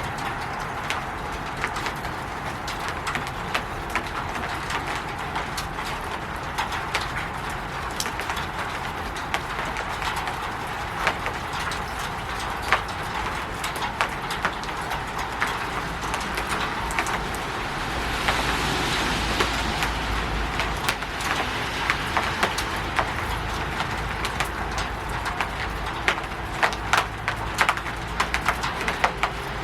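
Rain falling steadily on a roof: a constant patter with many separate drops ticking sharply, the drips coming thicker toward the end. About eighteen seconds in, a low rumbling swell rises and fades over a few seconds.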